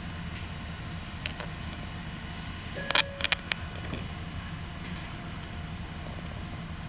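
Ohmi Railway local train: a steady low rumble, with a couple of faint clicks about a second in and a quick cluster of sharp knocks about three seconds in.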